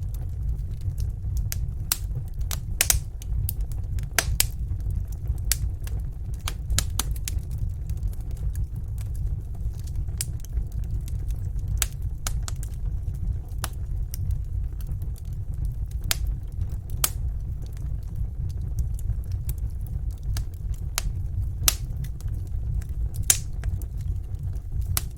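Wood fire burning in a fireplace: a steady low rumble with irregular sharp crackles and pops, about one or two a second.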